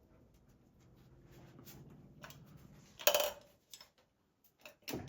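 A faint low hum, then a sharp metallic clank about three seconds in followed by a few lighter clicks, as of hand work on parts under a truck's hood.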